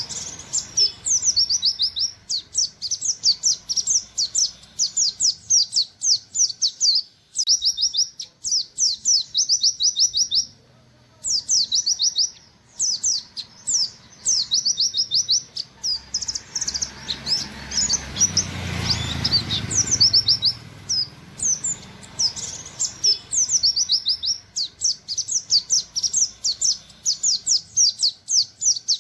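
Oriental white-eye (pleci buxtoni) singing in rapid-fire runs of quick, high, downward-slurred 'wit wit' notes, pausing briefly between runs. Partway through, a brief rustling noise with a low rumble sounds under the song.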